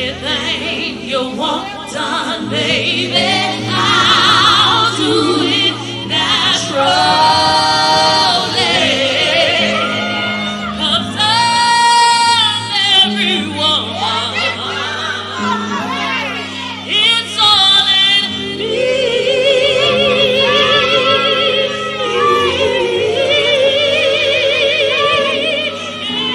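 A woman singing long held notes with strong vibrato over a live band's sustained low chords.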